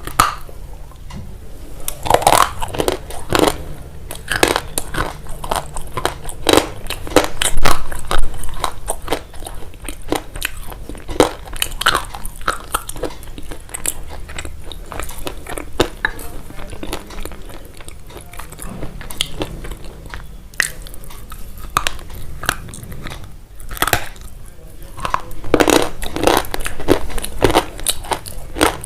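Crunchy food being bitten and chewed: a long run of sharp crunches at an irregular pace, loudest about eight seconds in.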